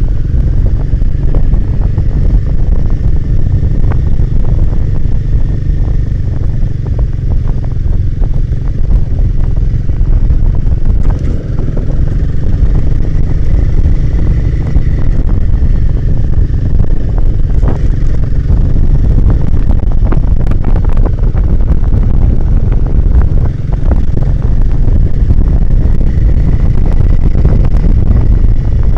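Royal Enfield Himalayan 450's single-cylinder engine running under way, with heavy wind buffeting on the microphone. Scattered short knocks throughout.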